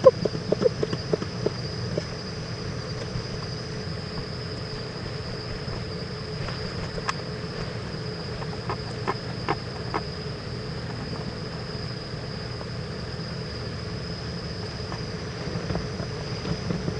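Steady high trilling of crickets over a low hum, with a few faint clicks and taps near the start and again around the middle.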